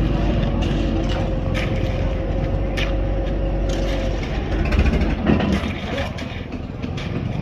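A motor running steadily, with a thin whine that stops about four seconds in, amid scattered clicks and knocks.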